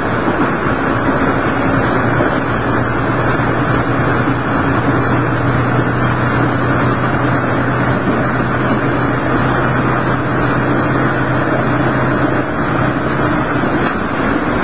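Diesel railcar running, heard from inside the cabin: a steady low engine drone under the rumble of the wheels on the rails.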